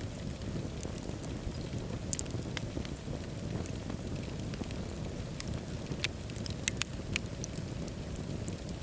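Wood fire burning in a fireplace: a steady low rumble of flames with scattered sharp crackles and pops, a small cluster of them about two seconds in and several more around six to seven seconds in.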